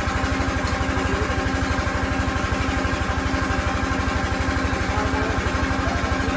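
A vehicle engine idling steadily, with an even, rapid low throb.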